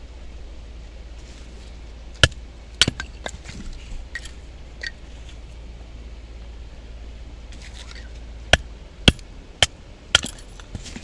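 Firewood being split by batoning: sharp wooden knocks of a baton striking the back of a knife driven into a log. They come in two groups, three quick blows a couple of seconds in and four more about eight seconds in.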